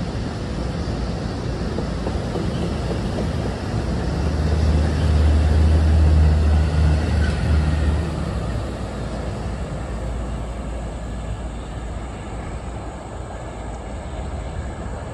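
NJ Transit train passing, a steady rumble with a low engine drone that swells about four seconds in and fades after about eight seconds.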